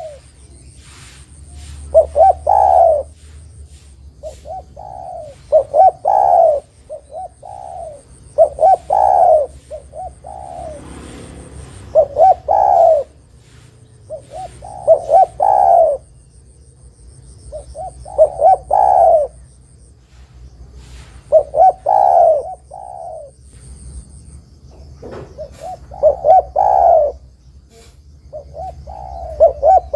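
Spotted dove (derkuku/tekukur) cooing: a phrase of several low coo notes, repeated about every three seconds.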